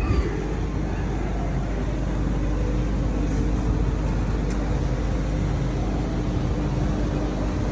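Road traffic noise: a motor vehicle's engine running with a steady low rumble, joined about two seconds in by a steady hum that holds to the end.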